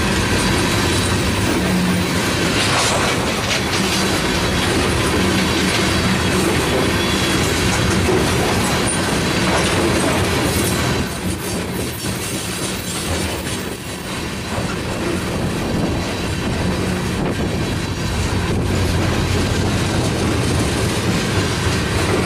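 Freight train of ethanol tank cars rolling past, its steel wheels running steadily on the rails. The sound dips for a few seconds about halfway through, then comes back to full level.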